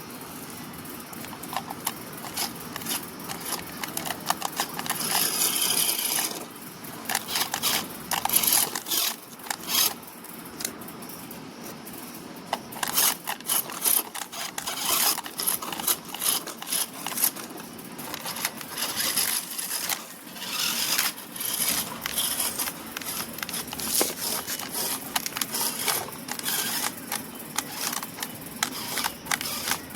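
Small RC vehicles' wheels crunching and scraping over rough dirt and stones: a dense run of irregular crackles and sharp clicks.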